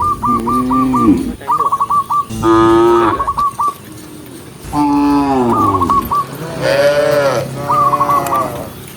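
Several cattle mooing one after another, long pitched moos at different pitches from different animals, some overlapping, with short gaps between them.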